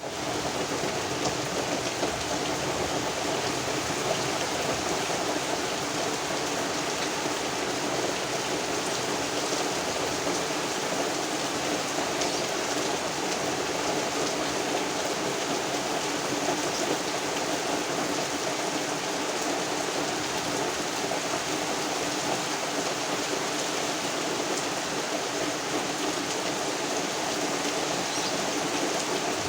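Heavy rain falling steadily, mixed with wind.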